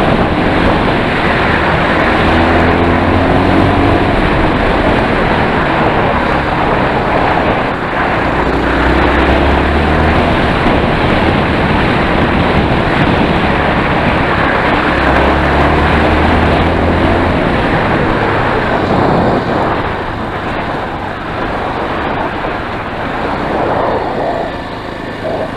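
Enduro motorcycle engine running under way, with heavy wind noise on the microphone. A low engine note comes up in stretches, and the sound drops somewhat about twenty seconds in.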